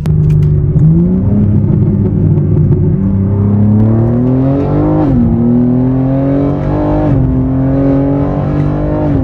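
BMW G82 M4's twin-turbo inline-six under full-throttle acceleration, exhaust valves open, with catless resonated downpipes and a single mid pipe, heard from inside the cabin with the windows up. The engine note rises steadily and drops sharply at the upshifts, about five and seven seconds in and again near the end.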